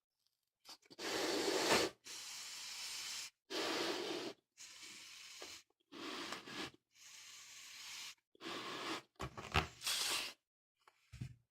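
A balloon being blown up by mouth: a run of about eight or nine forceful exhaled breaths, each lasting about a second, with short pauses between them for inhaling.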